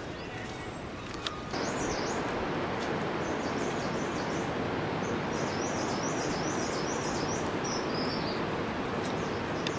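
A small bird singing a series of quick, high repeated chirps over a steady rushing noise that gets suddenly louder about a second and a half in.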